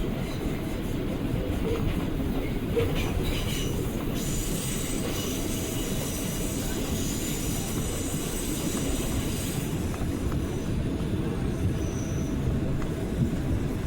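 R179 subway train running, heard on board: a steady rumble of wheels on rail. A few clicks come about three seconds in, and a high-pitched wheel squeal runs from about four seconds to about ten seconds in.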